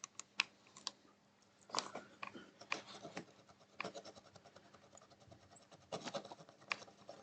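Faint scratching and rubbing with small scattered clicks as the freshly soldered HDMI port pins on a PlayStation 4 board are cleaned up by hand.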